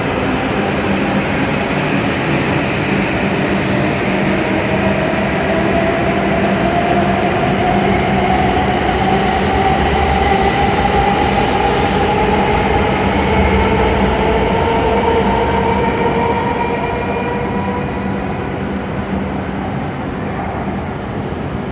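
W7 series Shinkansen train pulling away from a station platform: the traction motors give a whine that rises slowly in pitch as the train accelerates, over the rush of the moving train. It grows louder, then fades over the last few seconds as the train moves off.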